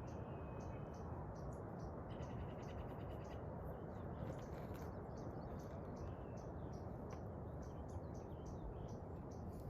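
Small birds chirping repeatedly, with a brief trill about two seconds in, over a steady rushing background noise.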